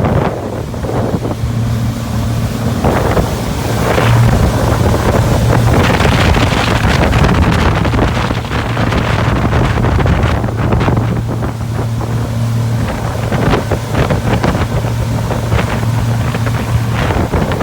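2012 Hurricane 2400 boat underway, its engine running at a steady pitch under heavy wind buffeting on the microphone and rushing water.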